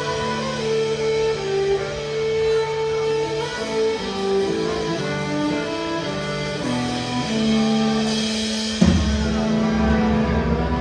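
Country band playing an instrumental passage with no vocals, a guitar carrying the melody over bass. About nine seconds in, a sharp hit lands and the bass and drums come in harder.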